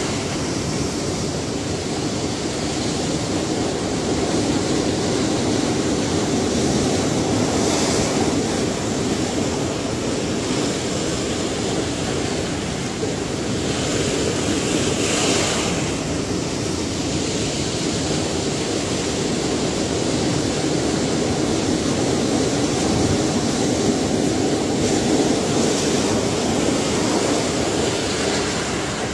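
Ocean waves washing onto a shore in a continuous rushing noise, with brighter hissing surges of breaking surf about 8, 15 and 25 seconds in.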